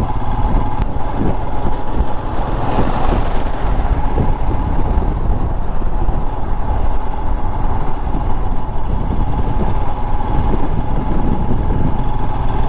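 Royal Enfield Himalayan's single-cylinder engine running steadily under way, under heavy low rumble from wind on the microphone.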